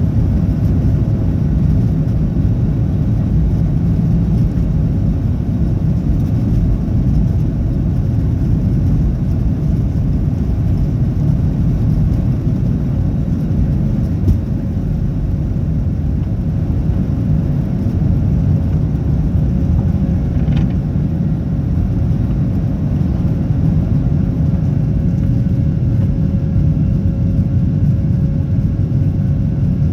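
Boeing 737-800 cabin noise: a steady, loud low rumble of its CFM56 engines and airflow heard from inside the cabin, with a faint steady hum on top. One short click comes about halfway through.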